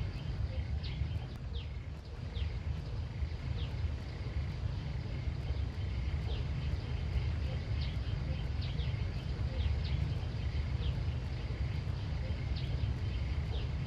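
Outdoor ambience: a steady low rumble under many short, falling bird chirps, with a faint steady higher hum.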